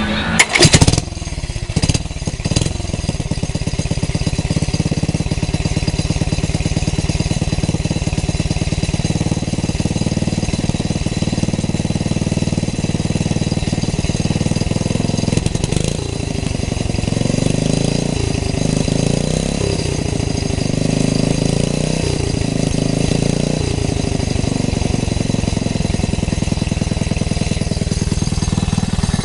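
Tecumseh H70 single-cylinder four-stroke engine catching with a few loud bangs about a second in, then running steadily. Past the middle its speed rises and falls several times before settling.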